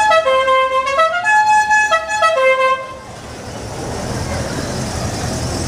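A musical car horn playing a quick tune of short notes for about three seconds, then stopping. Traffic and engine noise runs on underneath and grows a little louder afterwards.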